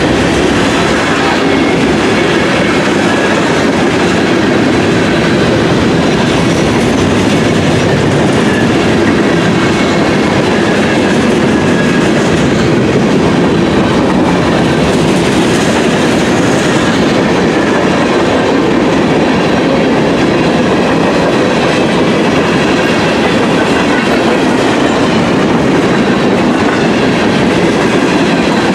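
A train's cars rolling past close by: a steady, loud rumble and clatter of steel wheels on the rails.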